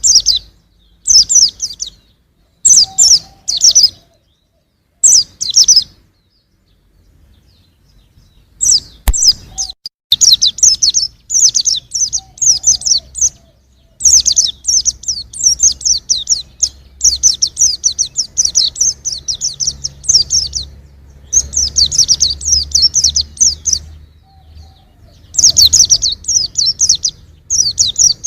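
Young white-eye (pleci) singing: loud, fast, high-pitched twittering phrases. At first the phrases come in short bursts with pauses, then run almost without a break for much of the middle, with a short pause near the end.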